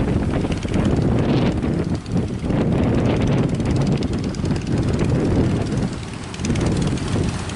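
Strong, gusting wind buffeting the microphone: a loud, uneven low rumble that swells and eases, dropping briefly about two seconds in and again near the end.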